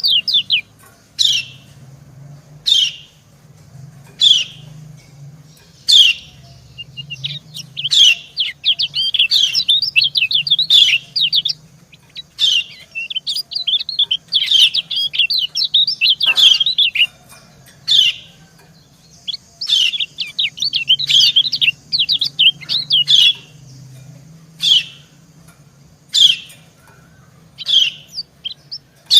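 Yellow white-eyes calling: a female's short, high 'ciak' chirps repeated every second or two, answered by longer runs of fast twittering song from a male. A faint steady low hum runs underneath.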